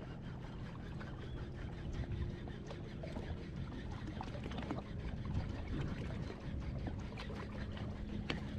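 Water splashing and trickling around a small boat, many small splashes over a steady low hum.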